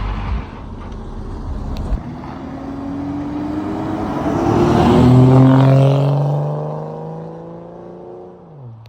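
A car accelerating as it drives past, its engine note climbing in pitch, loudest about halfway through, then fading away, the engine note dropping off just before the end.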